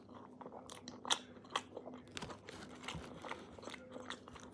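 Close-miked bites and chewing of a kebab: a run of crisp crunches and wet chewing, with the two sharpest crunches about a second in and half a second after that.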